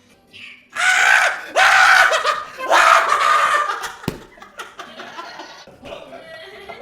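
Excited shrieking and laughter in three loud bursts, fading to quieter laughter, with a single sharp click about four seconds in.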